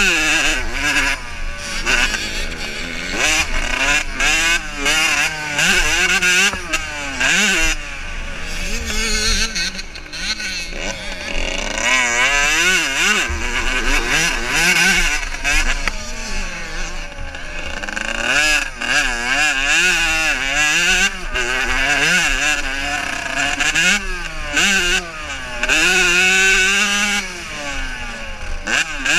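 Several motocross bikes racing, their engines revving up and down through the gears with overlapping, constantly rising and falling pitches.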